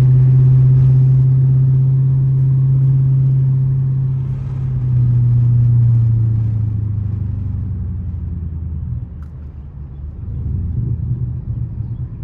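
Straight-piped 2012 Dodge Charger SRT8's 6.4-litre Hemi V8 exhaust while driving, holding a steady low drone for about six seconds. The note then drops and fades, and it builds again near the end.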